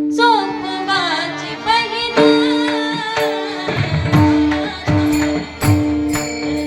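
A woman singing a devotional kirtan melody with ornamented glides over sustained harmonium notes. About halfway through, hand drum strokes and small cymbals come in with a steady beat.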